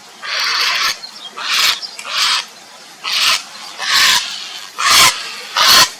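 Grey heron calling for a mate with a run of about seven short, harsh calls in quick succession, each lasting a fraction of a second.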